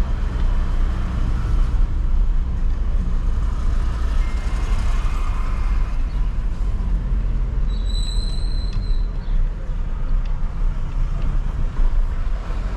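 Cabin noise of a Jeep Renegade diesel SUV driving: a steady low rumble of engine and tyres on the road. A short high tone sounds for about a second and a half, roughly eight seconds in.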